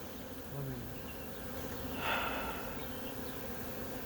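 Honeybee swarm buzzing: a steady hum of many bees in the air as the swarm streams into a hive box. A brief soft rustle about two seconds in.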